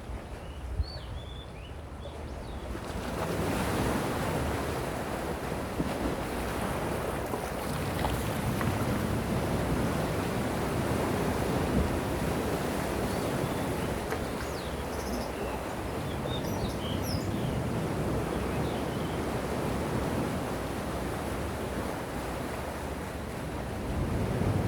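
Gentle sea waves washing onto the shore. The surf is fairly quiet at first, swells about three seconds in, and then holds steady.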